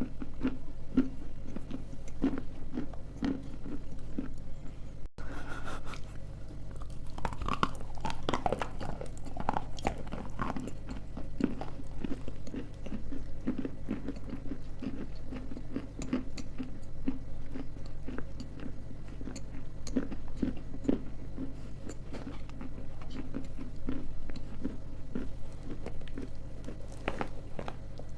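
Close-miked biting and chewing of dry edible clay: many small, irregular crisp crunches over a steady low hum.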